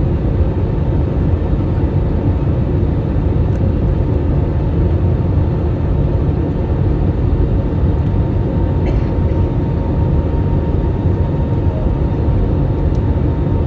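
Airbus A320-family jet airliner on its landing approach, its engines giving a steady low rumble; a faint steady whine joins in about eight seconds in.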